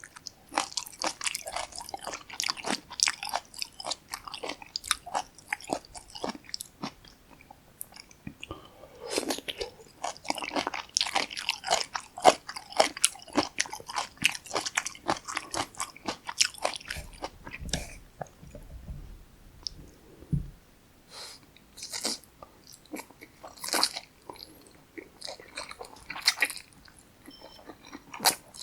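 Close-miked eating sounds of jjapaghetti black bean noodles and kimchi: dense, wet, clicky chewing and crunching, thinning to sparser bites in the last third, with a brief low rumble a little past the middle.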